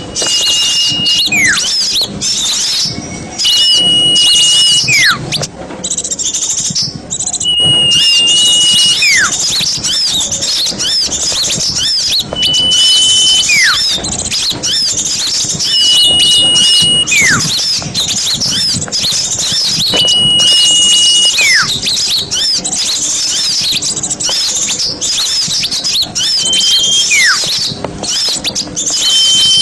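Dense, continuous chattering and twittering of a flock of small birds, used as a lure recording for forest birds. A clear whistled note, held for about a second and then sliding steeply down in pitch, recurs roughly every four seconds over the chatter.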